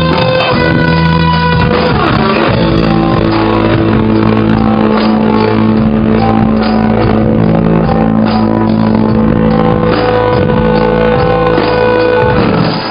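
Rock band playing live, with guitar over long held chords; the music stops right at the end.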